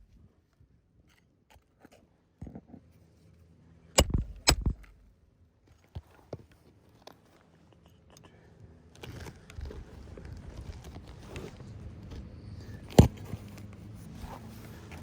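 Hammer striking roofing nails into asphalt shingles: two sharp blows about four seconds in, a few light taps, and a single blow near the end. A steady low noise comes in about nine seconds in.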